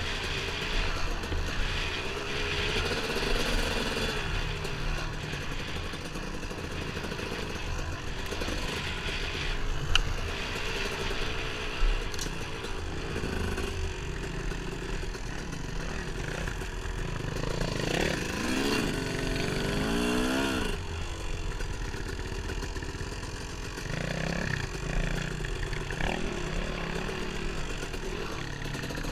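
Dirt bike engine running under a rider on a trail, its pitch rising and falling with the throttle, with a stretch of repeated revving near the end. Two sharp knocks come about ten and twelve seconds in.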